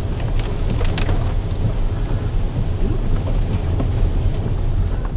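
A car driving through heavy rain on a flooded road, heard from inside: a steady low rumble of engine and tyres under the hiss of rain and water, with a few sharp clicks about a second in.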